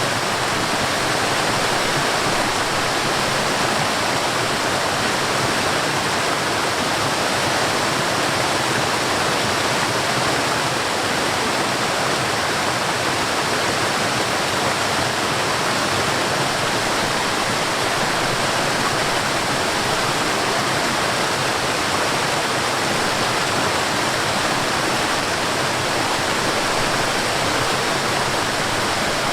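Mountain stream tumbling over a waterfall: a steady, even rush of water that does not change.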